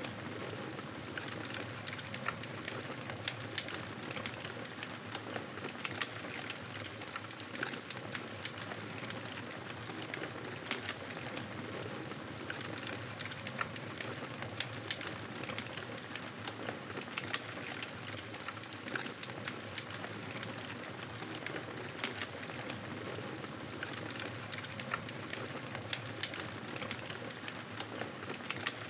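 Campfire burning with steady crackling, many small sharp pops and snaps over a soft hiss.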